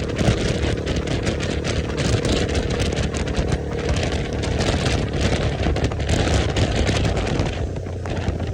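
KTM motorcycle with an aftermarket exhaust running on the road, its engine rumble under wind buffeting on the microphone; the wind rush eases near the end.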